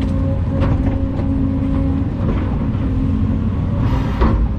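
Volvo EC220 excavator's diesel engine running steadily with a constant hum, and a few short knocks from the machine working.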